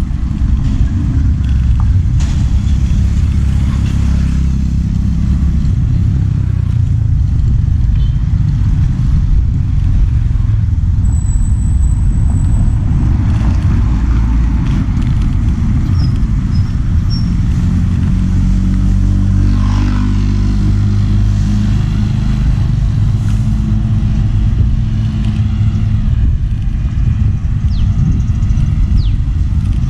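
A motor vehicle on the move: a steady, heavy low rumble, with an engine note that comes up more clearly about two-thirds of the way through.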